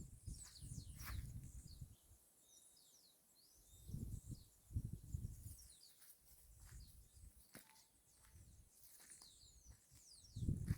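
Birds chirping, with many short, high calls that sweep downward in pitch, scattered throughout. Low rumbling bursts come in at the start, again around four to five seconds in, and at the very end.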